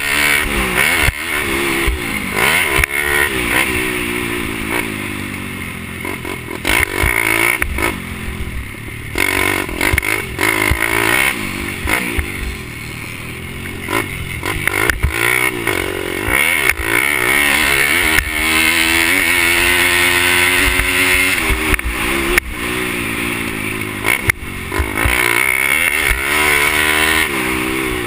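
Pit bike engines racing, revving up and dropping back over and over through the gears, with a longer stretch held at high revs past the halfway point and scattered knocks and clatter.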